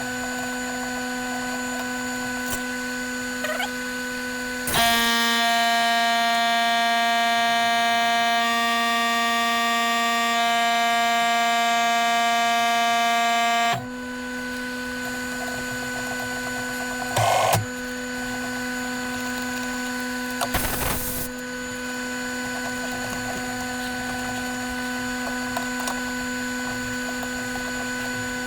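A workshop machine's electric motor running with a steady whine. For about nine seconds in the middle a louder, higher whine joins it and then cuts off suddenly. Near the end come two brief bursts of noise.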